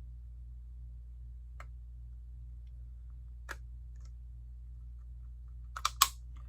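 Lego plastic pieces clicking as parts are pressed together: a couple of single clicks, then a quick cluster of sharper snaps near the end, over a steady low hum.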